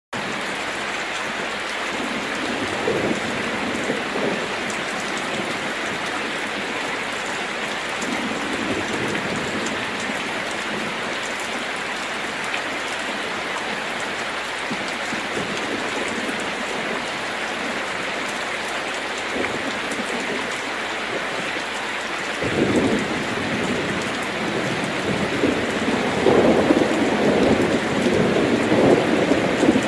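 Heavy rain falling steadily on a metal roof, with thunder: faint rumbles early on, then a stronger rolling rumble that starts about three-quarters of the way in and grows louder toward the end.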